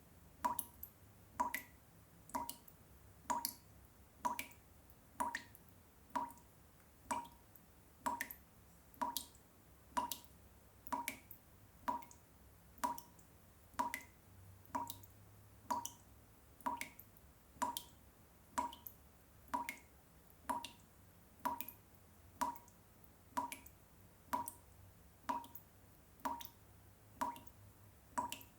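Water drops falling one after another at an even pace of a little over one a second, each a short plink with a clear pitch, over a faint low hum.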